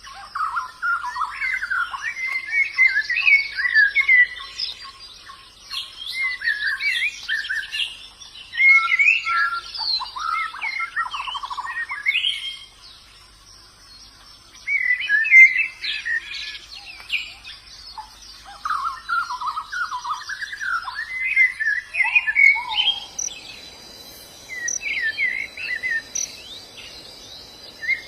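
White-eyes (pleci) twittering in repeated bursts of quick, warbling song phrases, with a short pause about halfway through. Near the end a steady high insect buzz joins in.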